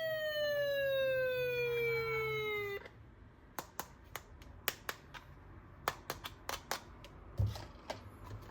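Electronic toy sound effect: a single long tone sliding steadily down in pitch that cuts off suddenly about three seconds in. It is followed by a series of sharp plastic clicks and taps as the toys are handled.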